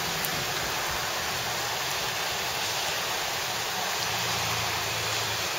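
Heavy rain falling steadily on a flooded rice paddy in a thunderstorm, an even hiss with no breaks.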